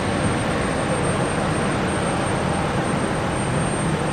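Steady, even aircraft engine noise from an airliner at the airport, holding at a constant level without rising or falling.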